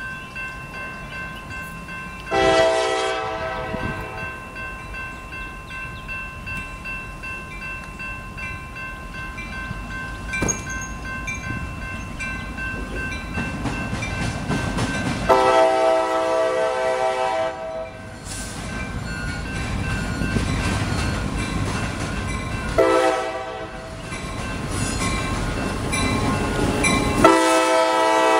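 A CSX freight locomotive's air horn sounds four blasts: a short one early, a long one about halfway, then a short one and a long one near the end. Under them a level-crossing bell rings steadily, and the rumble of the approaching train grows louder through the second half.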